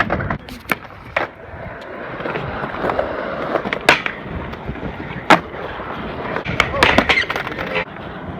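Skateboard rolling over pavement, the wheels making a steady rumble, with sharp clacks of the board hitting the ground several times.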